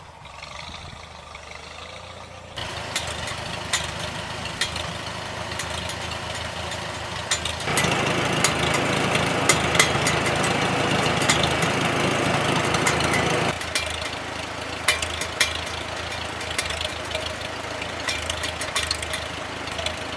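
A vehicle's engine running steadily, louder for several seconds in the middle, with scattered clicks and rattles over it.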